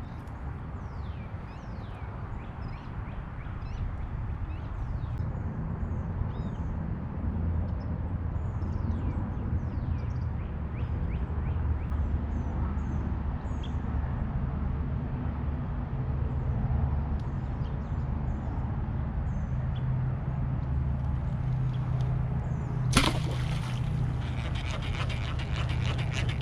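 Birds chirping, many short falling chirps, over a steady low rumble on the water. About 23 seconds in, a sudden loud rasping noise bursts in and lasts a few seconds.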